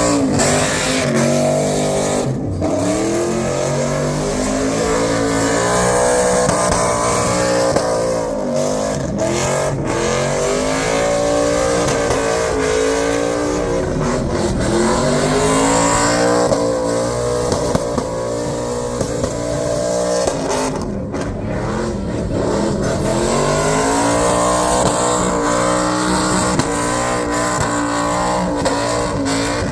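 Car engine revving hard, its pitch swinging up and down over and over, over a constant rushing noise.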